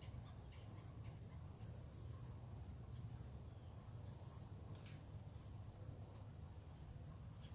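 Faint birds chirping in short, irregular high-pitched notes over a steady low hum.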